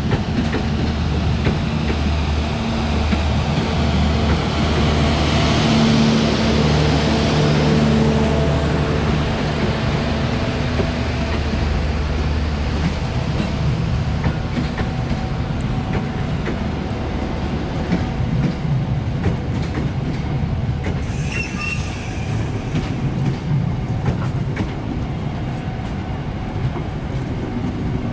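Coaches of the Dharmawangsa long-distance passenger train rolling past close by as it runs into the station: a steady rumble of steel wheels on rail, with clacking and some wheel squeal. A low engine hum runs under it and fades out about halfway through.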